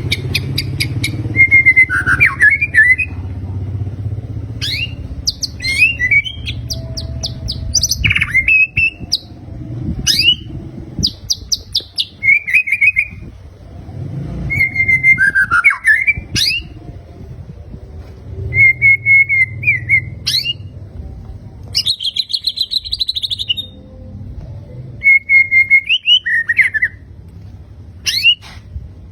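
White-rumped shama (murai batu) singing a string of short, loud phrases: clear whistles mixed with fast rattling trills, each phrase separated by a brief pause, with a dense buzzy trill about 22 seconds in.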